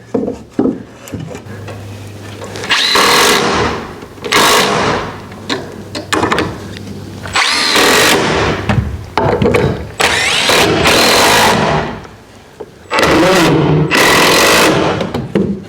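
Power drill running in short bursts, about six times, each a second or two of whining motor, as if driving screws into the shed framing or siding.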